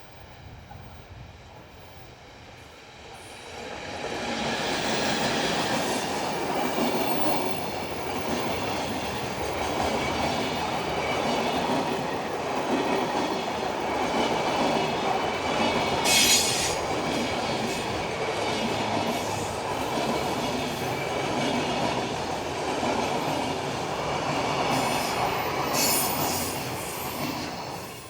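An electric-hauled freight train running past, its wagon wheels clacking over the rail joints in a steady rhythm. It builds up a few seconds in and fades near the end, with brief high-pitched wheel squeals about halfway through and again near the end.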